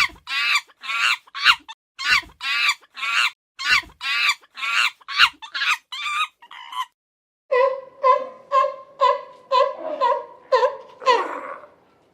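Chickens calling: a quick run of short, higher-pitched calls, about three a second, then after a brief gap a lower series of clucks, about two a second.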